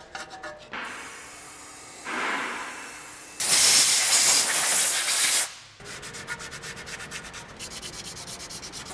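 Rust being scrubbed off the steering knuckle's hub bore by hand in quick back-and-forth abrasive strokes, cleaning it to take a new front wheel hub bearing. About three and a half seconds in, a loud two-second hiss of compressed air blows the dust out, then the scrubbing resumes.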